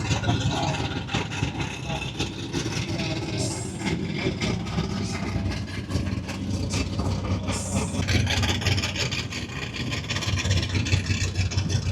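Car engine idling steadily with a low, pulsing rumble.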